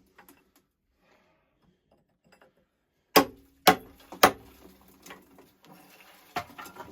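Cast-iron boiler sections being knocked apart: three sharp metallic clanks about half a second apart, each with a brief ring, then a lighter knock near the end. The old sections are crumbling as they come apart.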